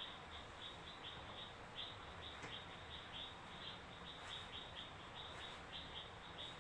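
Faint high-pitched chirping that repeats steadily about four times a second, with a few soft clicks.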